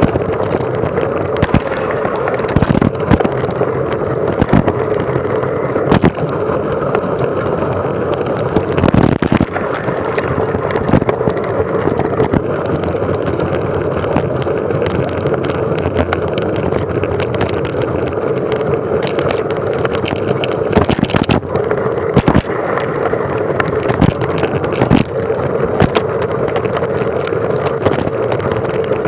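Mountain bike riding over rough ground: a steady rushing of wind and tyres, with frequent knocks and rattles from bumps.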